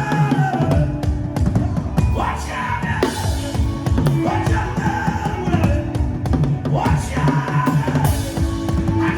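Drum kit played in a busy, driving groove, with dense strokes and a steady bass drum over backing music in which a melodic line slides in pitch now and then.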